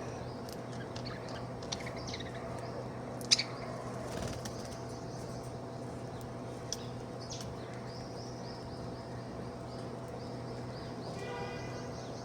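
Budgerigar chattering in quick, high twitters and chirps, with a few sharp clicks, the loudest about three seconds in, and a short buzzy call near the end, over a steady low hum.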